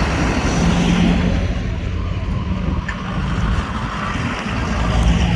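Heavy vehicle engine running steadily with a constant low hum.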